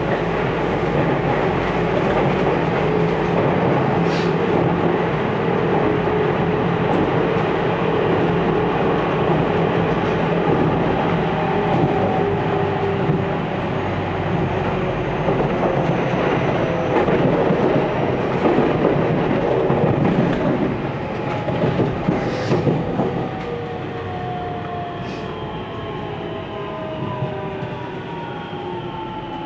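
Inside a JR 313 series electric train at speed: steady wheel-and-rail running noise with occasional clicks over rail joints. From about two-thirds of the way in the noise eases and the traction motors' whine slides down in pitch as the train slows.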